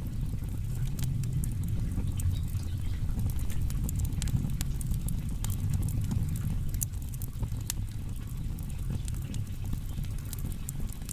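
Wood fire burning: a steady low rush of flame under frequent, irregular sharp crackles and pops from the burning firewood.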